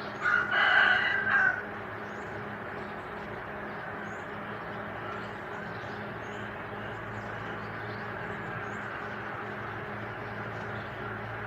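A rooster crows once, a loud pitched call about a second and a half long just after the start. A steady low background hum follows, with faint short high chirps.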